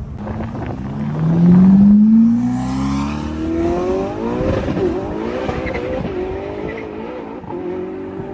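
A car's loud exhaust as the engine accelerates hard, its pitch climbing steadily for about four seconds, then running on at a roughly steady, wavering pitch.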